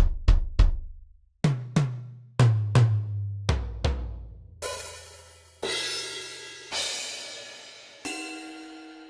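Sampled acoustic drum kit from Roland DrumStudio Acoustic One, played one drum at a time: three bass drum kicks, then pairs of tom hits stepping down in pitch, then four single cymbal strikes that ring on, the last with a sustained bell-like tone.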